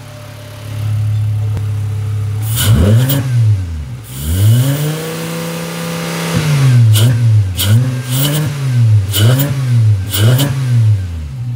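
Volkswagen Jetta 2.5's inline five-cylinder engine, breathing through a newly fitted open-filter cold-air intake, idles and is then revved: one short rev, one held for about two seconds, then five quick throttle blips, each with a rush of intake noise at the top before falling back to idle.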